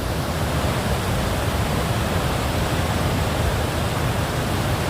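Loud, steady rush of a white-water river in spate, crashing over rapids and a waterfall.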